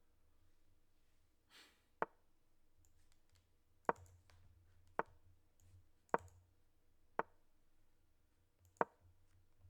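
Six sharp clicks at uneven spacing, about a second or two apart: chess moves being played in a fast online game.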